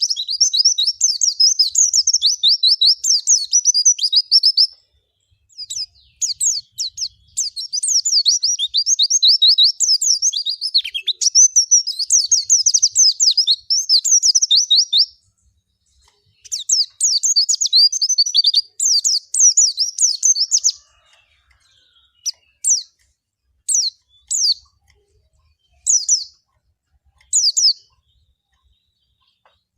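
Pleci (white-eye, Zosterops) singing in long runs of rapid, high twittering chirps that break off briefly twice. Near the end the song gives way to single short calls about once a second.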